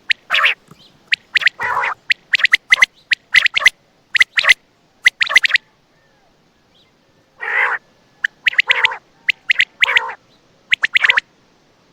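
Coturnix quail calling: quick runs of short, sharp, high notes mixed with rougher, lower calls, with a pause of about a second and a half midway.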